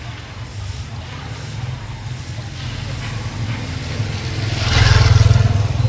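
A motor vehicle's engine running steadily, growing louder and peaking about five seconds in as the vehicle comes close.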